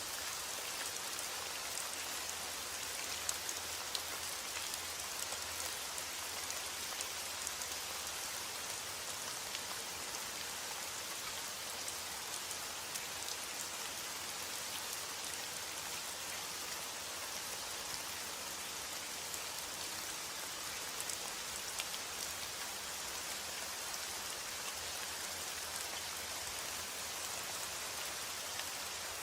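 Steady rain falling, a continuous hiss with many small droplet taps on surfaces.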